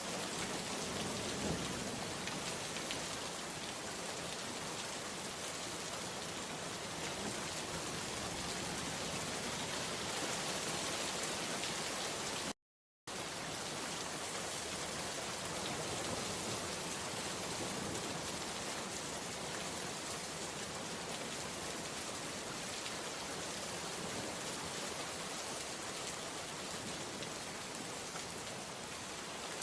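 Steady rain falling, an even hiss of drops on surfaces with no let-up, except that it cuts out to complete silence for about half a second partway through.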